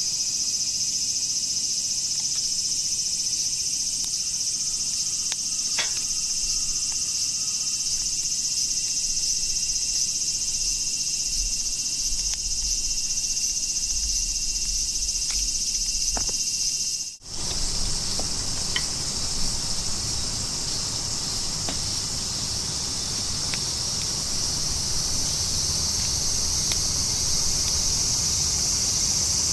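Summer insects calling steadily in a dense high-pitched chorus, with a brief dropout partway through and a few faint clicks.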